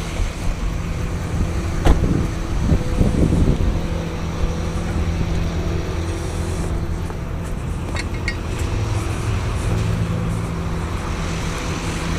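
Tow truck engine running steadily, with a sharp click about two seconds in.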